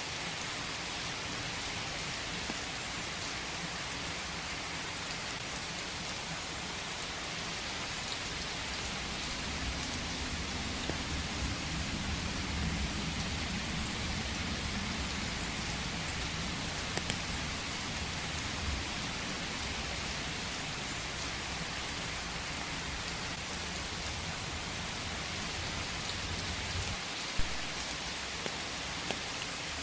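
Steady rain falling, an even hiss of drops. A low rumble swells and fades in the middle, and a single sharp tap stands out near the end.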